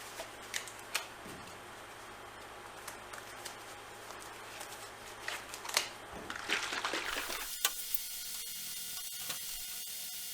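Hand-polishing an aluminum canoe: wet, squishy rubbing with light clicks. About seven and a half seconds in, the sound changes abruptly to a steady hiss with faint steady tones.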